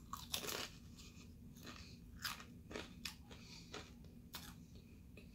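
A bite into a crispy fried cream cheese wonton, then chewing with crisp crunches about every half second; the loudest crunches come right at the bite.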